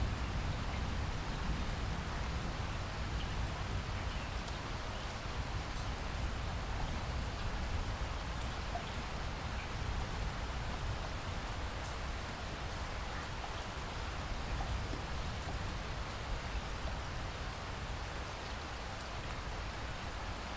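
Steady rainfall, an even hiss with scattered single drops ticking through it and a low rumble underneath that eases slightly over the first few seconds.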